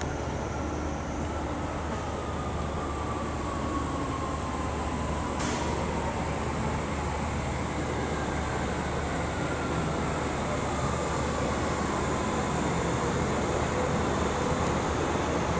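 Yokohama Minatomirai Railway Y500 series electric train running, its steady rumble carrying a motor whine that falls in pitch as the train slows. A single sharp click about five seconds in.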